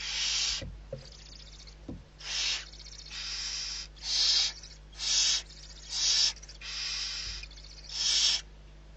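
Barn owl giving a series of harsh hissing calls, about eight rasping hisses roughly a second apart.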